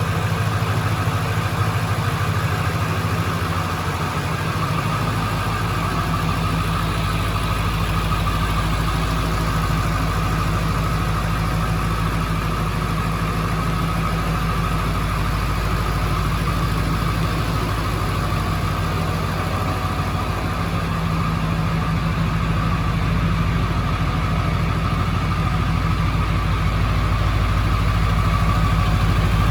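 Ford 7.3L Power Stroke turbo-diesel V8 of a 2000 Ford Excursion idling steadily.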